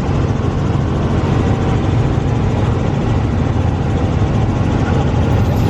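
Helicopter in flight: a steady, loud drone of engine and rotor.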